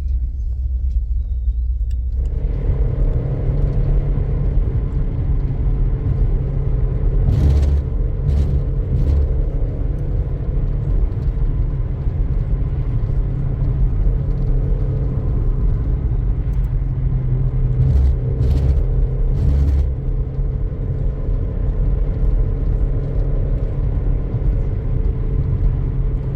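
Car driving on a road: steady low engine and road rumble, with the tyre noise growing louder about two seconds in and a few brief knocks around eight and nineteen seconds in.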